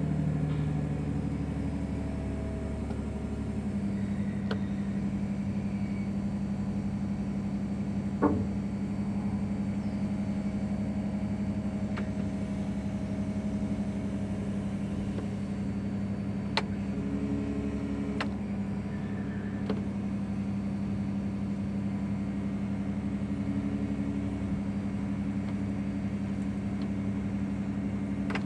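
Heavy construction machinery's engine running steadily, as on a pile-drilling rig boring holes for concrete columns, with a sharp knock about eight seconds in and a few fainter clicks later.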